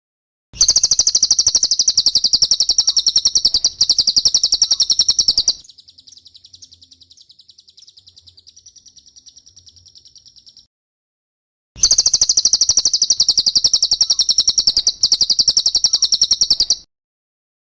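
Cililin song: a fast, loud run of high-pitched chips, then a softer, buzzy trill, a brief pause, and a second fast run of chips.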